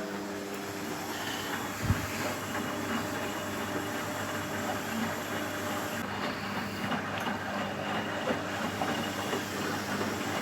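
Front-loading washing machine running a wash cycle: steady motor hum with water hissing in through the inlet, and a single thump about two seconds in.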